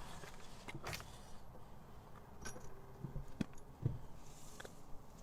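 Faint scattered clicks and knocks, about five over a few seconds, against a quiet background.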